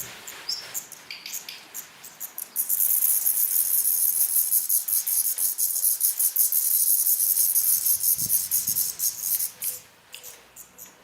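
Nestling birds begging: a loud, rapid run of very high-pitched chirping that starts about two and a half seconds in, lasts about seven seconds, then dies down, with a few scattered chirps before it.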